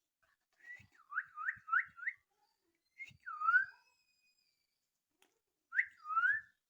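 Short whistled chirps that dip and then rise in pitch: a quick run of four, then two, then two more near the end.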